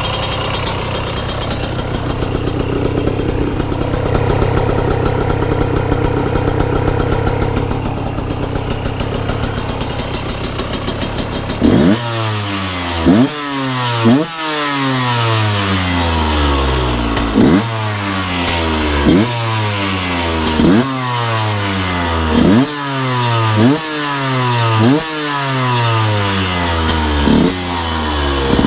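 KTM 125 EXC two-stroke engine with a newly fitted full Scalvini carbon exhaust, idling steadily. About twelve seconds in it is revved in repeated blips, about one every second and a half, each rising sharply and falling away slowly back toward idle.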